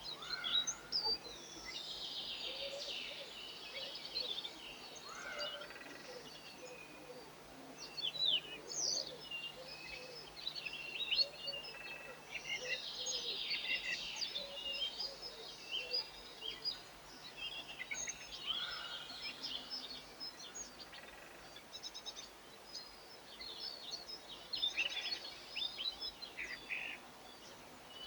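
Small songbirds chirping and twittering, with many short, overlapping calls following one another without a break.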